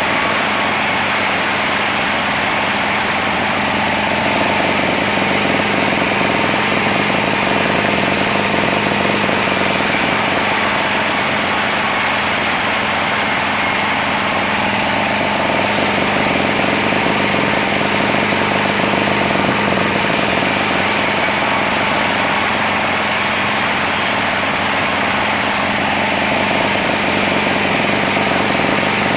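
Log sawmill running loudly and steadily: a constant machine hum and whine over dense noise, swelling and easing slowly every ten seconds or so.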